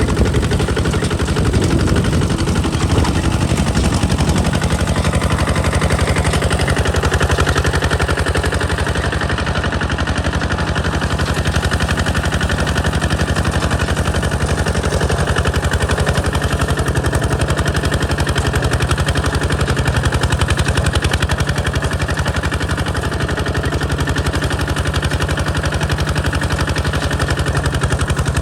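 Single-cylinder diesel engine of a Kubota ZT155 DI walking tractor running under way, its exhaust giving a rapid, even train of pops.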